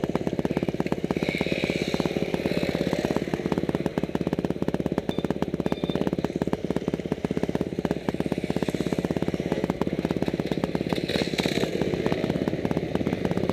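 Motorcycle engine running steadily at low revs, a fast even train of exhaust pulses.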